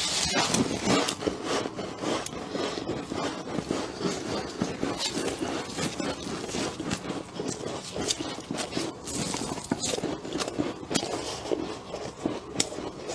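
Freezer frost being chewed up close, a steady run of crunching with many sharp cracks and crackles.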